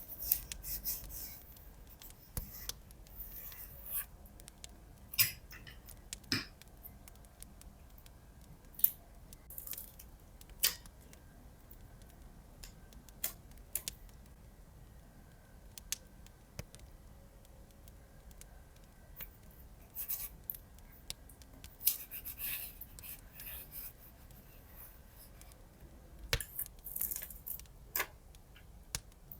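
Hands at paper crafting: scissors snipping and paper rustling, with irregular light taps and clicks.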